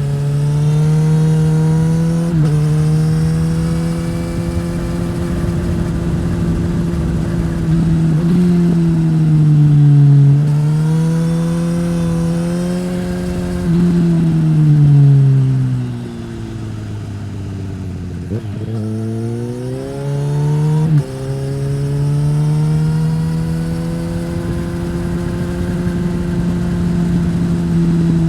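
2015 Suzuki GSX-S1000's inline-four engine through a Yoshimura R-11 slip-on exhaust while riding. The pitch rises and falls with the throttle, with sudden steps at the gear changes. In the middle it drops to a low, slow run for several seconds, then it accelerates again.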